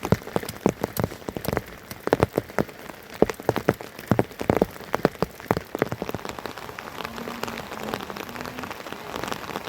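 Rain falling, with big drops landing close by as irregular sharp taps. The taps are thickest in the first six seconds, then give way to a more even patter.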